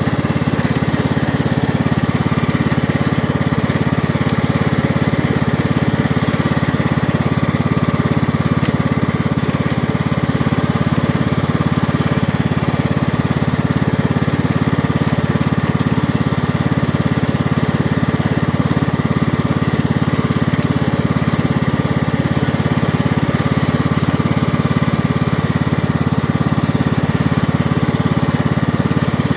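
John Deere lawn tractor's 540cc, 18 hp engine running steadily under way, a constant low engine drone with no change in speed.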